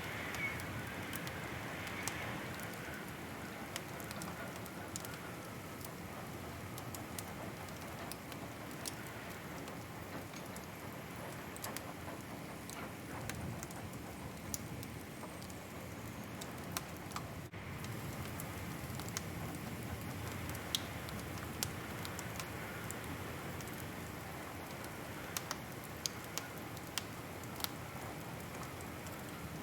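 Wood fire crackling: scattered sharp pops and snaps over a steady low rushing noise, with a quick run of pops near the end.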